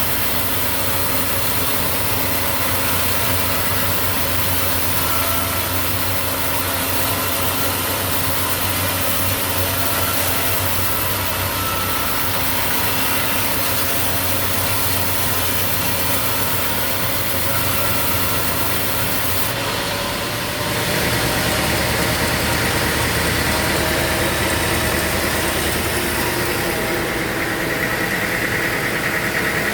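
Sawmill machinery running steadily with a constant hum. About twenty seconds in it gets a little louder and a high, steady whine joins it.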